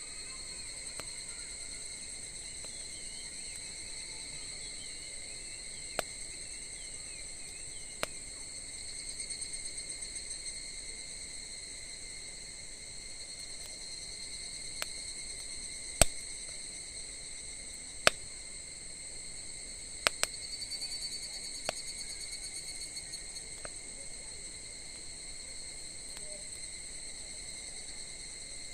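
Steady high chirring of night insects such as crickets, with a campfire crackling now and then in sharp single pops, the loudest about halfway through.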